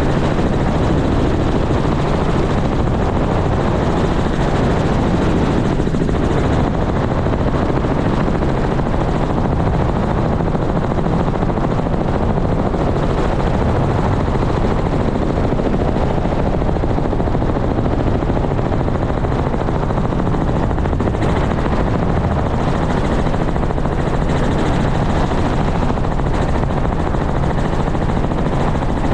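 Helicopter running steadily, a dense unbroken rotor and engine noise with a constant low throb.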